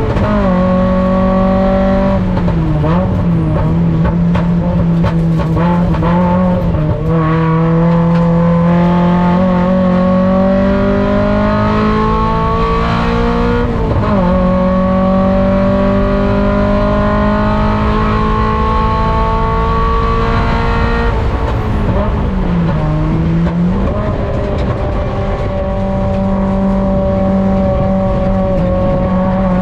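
Mazda Miata race car's four-cylinder engine heard from on board, pulling hard under load: its pitch climbs slowly through long straights and drops sharply several times as the driver lifts, brakes and shifts for corners.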